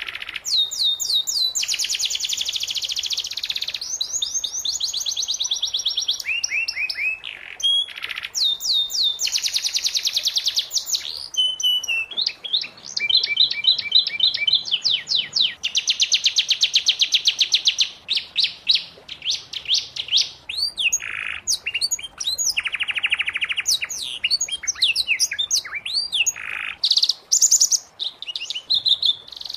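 Domestic canary singing a long, unbroken song of rapid trills and rolls, switching to a new phrase every second or two, with some quick high sweeping notes between them.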